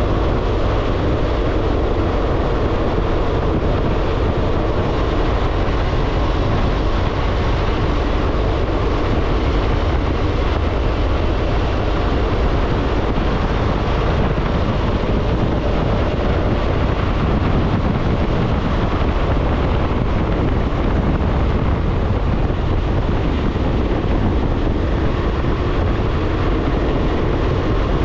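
BMW R1200GSA boxer-twin motorcycle cruising steadily at road speed: a constant rush of wind noise on the microphone over the engine's even drone.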